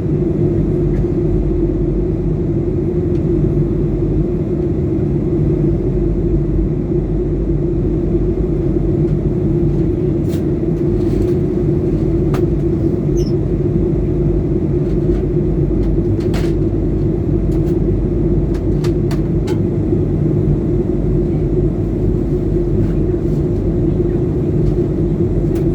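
Steady drone inside an airliner cabin in flight: engine and airflow noise with a constant hum, unchanging throughout, with a few faint clicks about halfway through.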